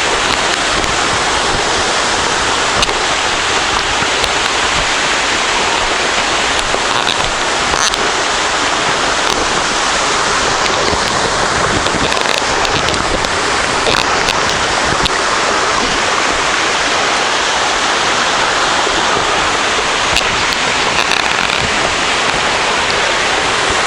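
Waterfall pouring: a loud, steady rush of falling water that does not let up.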